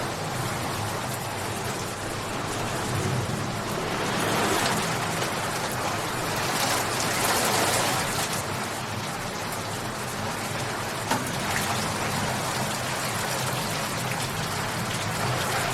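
Steady heavy rain falling, with scattered drops and patter, swelling a little louder twice and easing back, and one sharp drip or tap about eleven seconds in.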